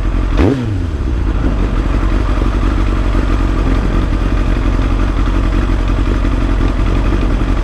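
Kawasaki ZX-7R's inline-four engine running on the move. About half a second in the engine note drops quickly, then it runs steadily.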